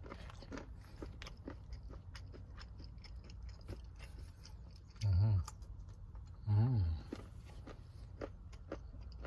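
A person chewing crunchy dark chocolate fruit bark with walnuts close to the microphone: a run of small crisp crunches and clicks. Twice, about five and six and a half seconds in, a short appreciative 'mmm' hum.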